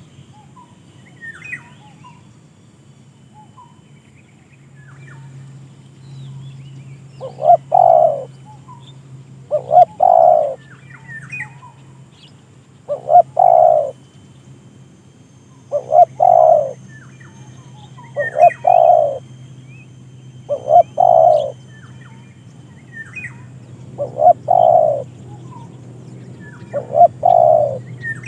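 Caged dove cooing repeatedly: eight short, loud coo phrases about every two and a half to three seconds, starting some seven seconds in, with faint chirps of small birds between them.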